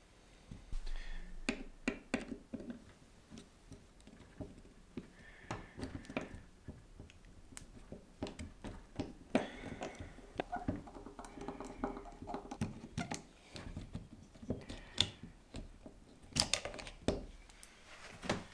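Scattered small clicks, taps and knocks of parts from a model locomotive's drive bogie being handled and taken apart by hand, irregular and uneven in strength throughout.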